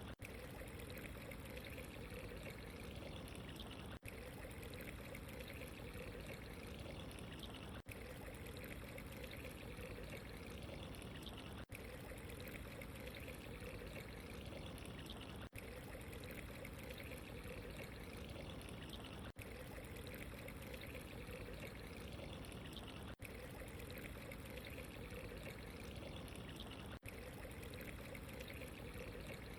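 Steady trickling, pouring water, as of a small stream or water running into a basin, with a very brief dropout about every four seconds where the short recording loops.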